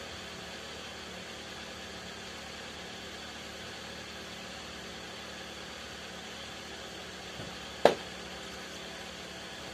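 Steady, engine-like hum under a constant background noise, with one sharp knock about eight seconds in.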